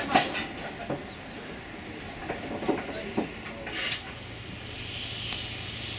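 Steam locomotive hissing steam, with a few sharp knocks and clanks in the first four seconds, then a steadier hiss from about four seconds in.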